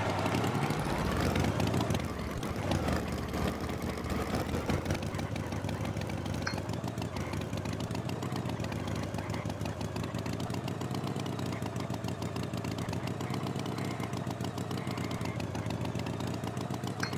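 Tractor engine idling with a steady, rapid putter.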